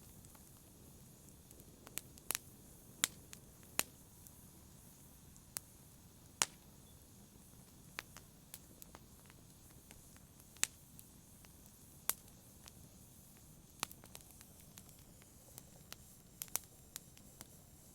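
Wood fire crackling in a fireplace: irregular sharp pops and snaps over a low, steady hiss of burning.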